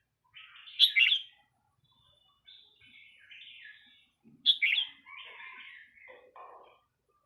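Red-whiskered bulbul singing: two loud phrases, one about a second in and another about four and a half seconds in, with softer chattering notes between them.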